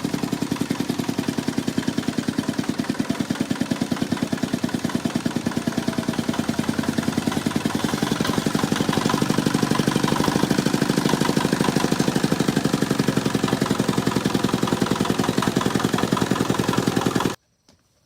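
A small engine running steadily with a rapid, even chugging. It stops suddenly near the end.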